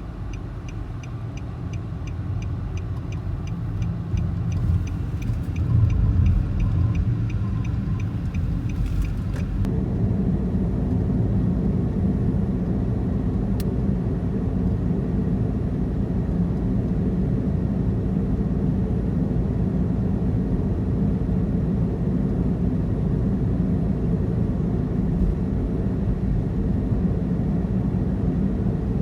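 A car driving, with a steady low rumble of engine and road noise that builds up and gets louder about a third of the way in. Over the first third a fast, regular ticking runs alongside it, then stops.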